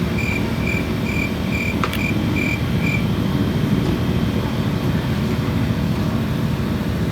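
Steady low rumble of cars running at a car meet, with a high electronic beep repeating about twice a second that stops about three seconds in.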